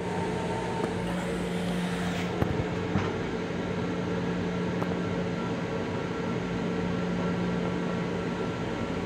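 Steady hum and rumble of an LIRR M7 electric railcar heard from inside its small restroom, with a few light clicks and knocks between two and three seconds in.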